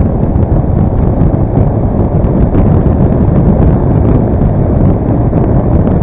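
Heavy wind noise on the microphone while riding a Daelim S3 scooter at road speed, over the steady running of its engine.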